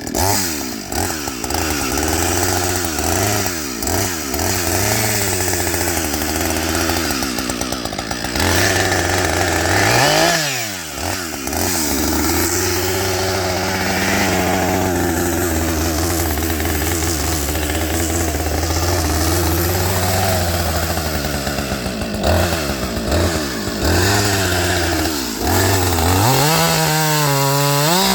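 Husqvarna 555 two-stroke chainsaw running, its engine speed rising and falling over and over, with a sharp rev-up near the end.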